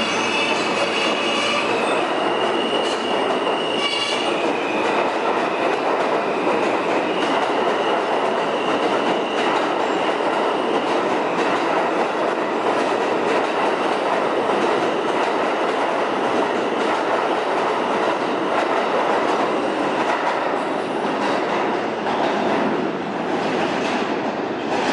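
R160 subway train running along the track, its wheels clattering over the rail joints, with a high-pitched wheel squeal in the first few seconds. The noise drops away near the end.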